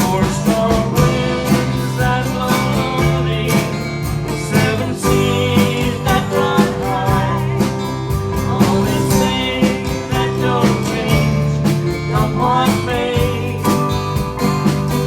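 Live folk-country band in an instrumental break: acoustic guitar strumming a steady rhythm with a melody line played over the chords.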